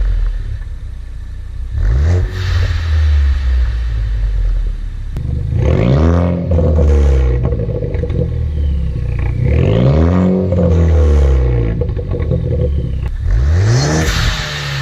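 Ford Focus ST's turbocharged four-cylinder engine and exhaust revved four times, each rev climbing quickly and falling back to a low idle.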